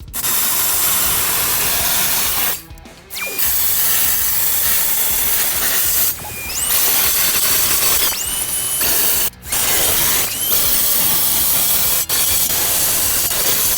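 A high-speed power tool working on the car's floor-pan sheet steel in loud bursts. It stops briefly several times, and each time it starts again a whine rises in pitch as it spins back up.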